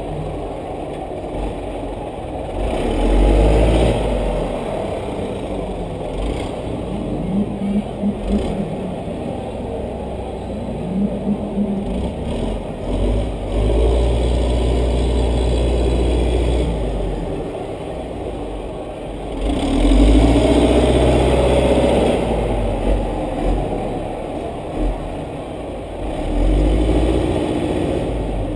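Race car engine heard from inside the cockpit, surging under throttle four times and easing off between, with scattered knocks and rattles.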